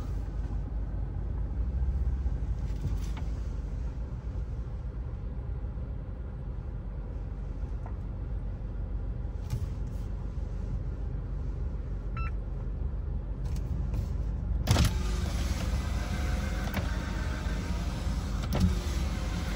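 Isuzu 4x4's diesel engine running low and steady, heard from inside the cab. About fifteen seconds in, a louder hiss comes in suddenly over it.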